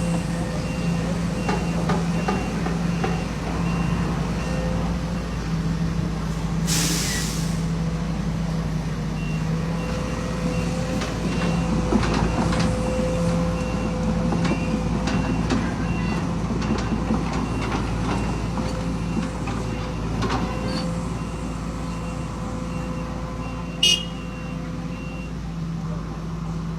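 Heavy diesel construction machinery running steadily, with a faint repeating high reverse or travel alarm beeping. About seven seconds in there is a loud hiss of released air, and a short sharp click comes near the end.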